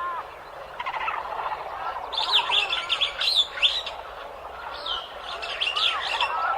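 A flock of birds calling: lower, arched honking calls run throughout, and two bursts of shrill, rapid chirping come in about two seconds and five seconds in.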